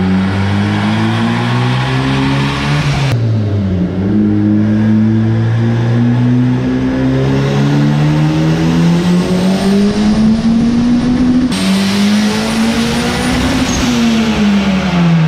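Turbocharged Honda K20A3 four-cylinder running a wide-open-throttle pull on a chassis dyno. Its electronic exhaust dump is open and the air filter is off, leaving a bare velocity stack. The engine note climbs steadily in pitch toward about 7,200 rpm, with a brief drop about three seconds in, and winds down near the end as the throttle closes.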